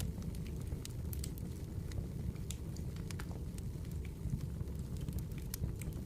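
Campfire burning, a steady low rumble of flames under frequent sharp crackles and pops of the wood.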